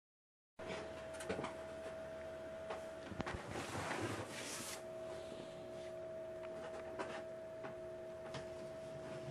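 Faint room tone with a steady hum and a few light clicks and knocks, starting about half a second in.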